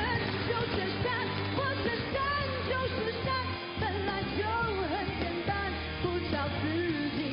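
Women singing a pop-rock song live, with full band accompaniment and a steady bass beat.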